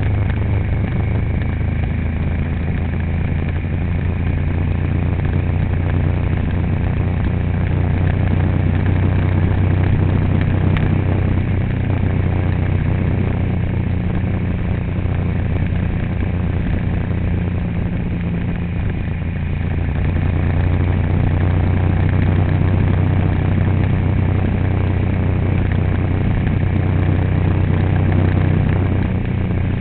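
A vehicle engine running steadily with a low, even hum, over continuous road noise, as on the move.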